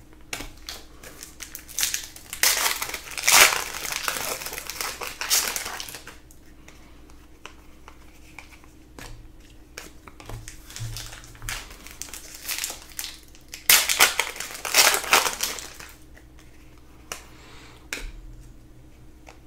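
Plastic trading-card pack wrappers crinkling as packs are torn open and crumpled, in two longer bursts of a few seconds each, with lighter rustling and card handling between. A faint steady hum runs underneath.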